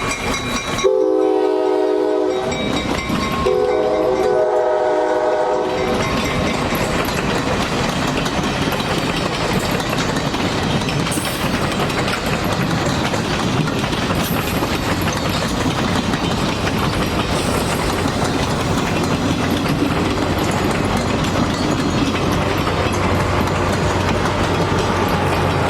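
Train horn sounding two blasts, a short one and then a longer one, each a chord of several tones. After the horn comes the steady rumble of a train rolling past, with its wheels clattering over the rail joints.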